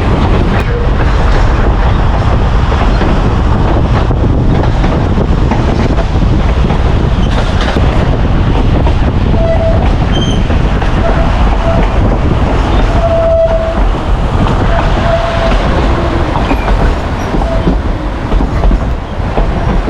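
Narrow-gauge railroad passenger car running along the track: a loud, steady rumble and rattle of wheels on rails. From about halfway through, short high squeals of the wheels come again and again.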